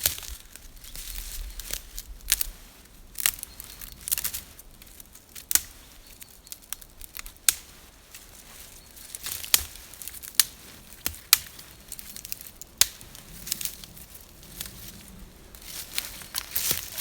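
Irregular sharp snaps and cracks over a soft rustle, a few seconds apart, crowding together near the end.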